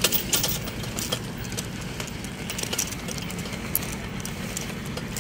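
Street ambience: a steady low traffic hum, with many scattered light clicks and taps over it.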